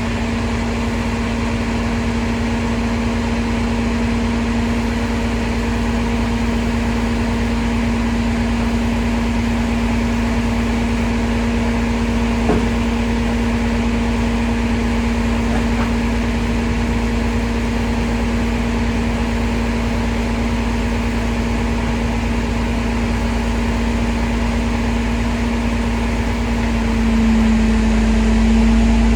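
Crane truck's engine running steadily with a constant droning hum, getting a little louder near the end.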